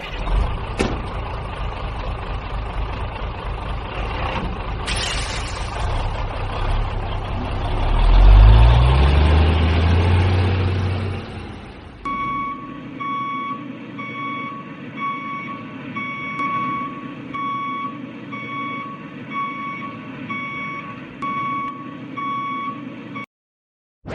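Heavy truck engine running, then revving up hard, followed by a reversing alarm beeping in a steady series until it cuts off suddenly.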